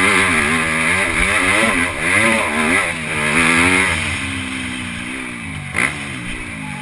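MX2 motocross bike engine heard from on board the bike, revving up and down over and over with throttle and gear changes. In the last few seconds it settles to a lower, quieter, steadier note, with one sharp click near the end.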